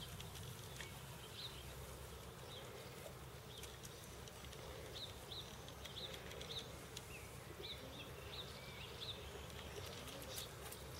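Faint outdoor ambience: short, high chirps of small birds scattered irregularly over a low steady rumble, with a few light clicks near the end.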